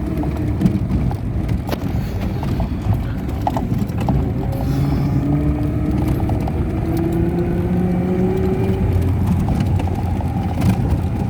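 A vehicle's engine runs steadily while driving, its pitch drifting slowly up and down, with scattered knocks and rattles.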